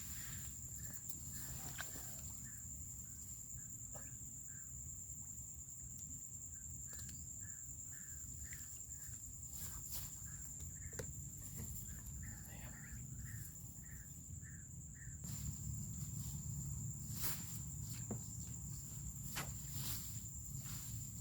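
Steady high-pitched insect drone, with a short call repeated about twice a second through much of it, scattered sharp clicks and footsteps, and a low rumble that gets louder in the last few seconds.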